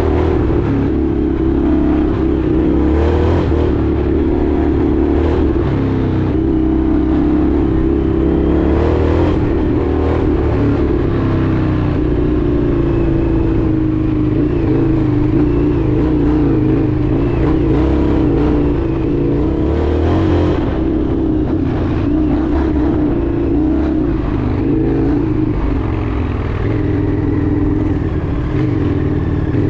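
Indian FTR 1200's V-twin engine running while riding, its note rising and falling as the throttle opens and closes, over a steady rushing noise.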